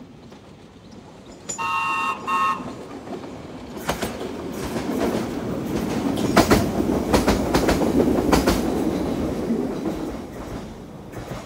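Ex-London Underground 1938 tube stock electric train sounding two short horn blasts, then running past close by, its wheels clicking over the rail joints. The train noise swells to a peak and fades as it passes.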